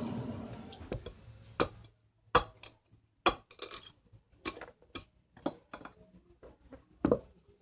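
A machine's steady running dies away over the first two seconds, followed by about a dozen sharp knocks and clicks of hard objects striking, at irregular intervals.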